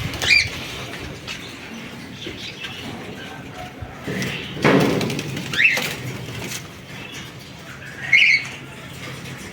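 Cockatiels giving three short, sharp calls, with a burst of rustling about halfway through.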